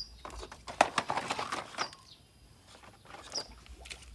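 Small birds chirping in short high calls a few times, with a burst of rustling and clicking from about half a second to two seconds in.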